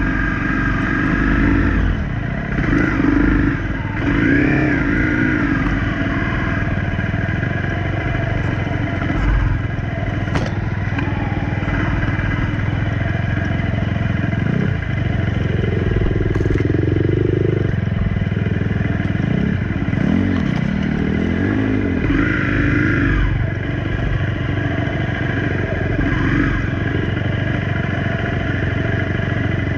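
Honda CRF250 dirt bike's single-cylinder four-stroke engine running under way on a trail, the revs rising and falling a few times as it is ridden.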